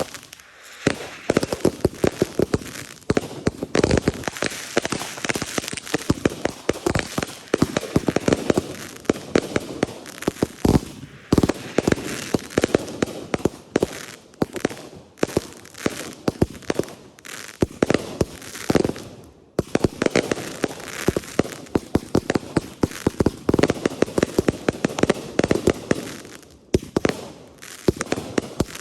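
Consumer fireworks going off in rapid succession: a dense, continuous run of sharp pops and crackles, with a couple of brief lulls.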